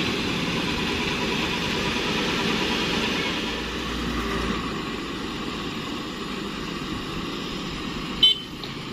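Truck engine running steadily at low revs, with one short sharp click about eight seconds in.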